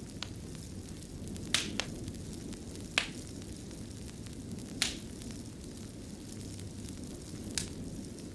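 Wood fire burning in a fireplace: a steady low rumble of flame with scattered sharp crackles and pops, about six in all, the loudest about three seconds in.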